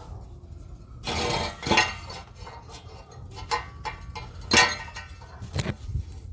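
Metal clinking and rattling as an exhaust pipe is hung: a bolt is worked through a rubber exhaust strap and a hole in the frame crossmember. There is a short scraping rush about a second in, followed by a few sharp clinks.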